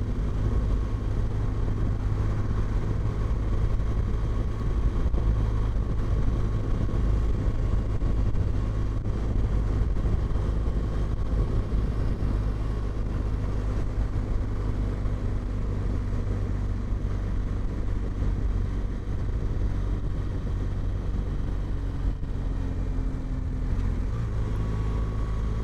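Motorcycle running at a steady road speed, a continuous low rumble of engine and riding noise with no distinct events.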